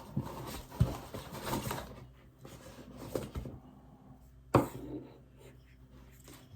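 Handling noise from unpacking an LED light kit: rustling and rubbing of packaging and parts, with a light knock just under a second in and a sharper one at about four and a half seconds.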